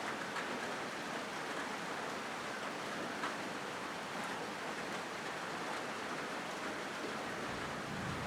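Steady rain falling on a corrugated zinc roof: an even hiss with a few sharper drop ticks. A low rumble starts near the end.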